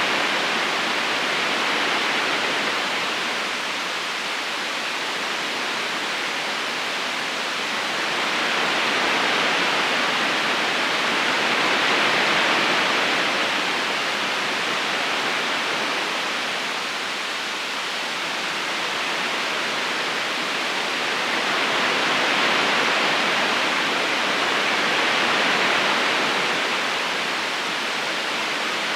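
A river's current flowing steadily over stones, a constant rushing of water that swells and eases slowly every few seconds.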